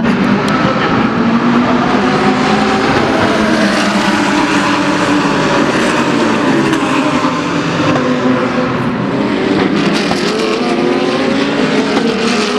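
GT3 race car engines at full throttle on track, several engines overlapping, their pitch rising and falling through gear changes.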